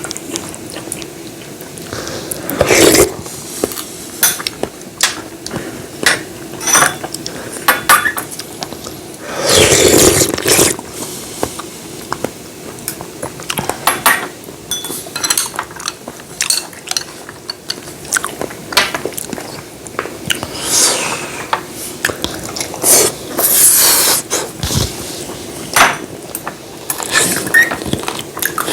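Eating utensils clinking and scraping against bowls and dishes in irregular, scattered clicks, with a few louder clatters along the way.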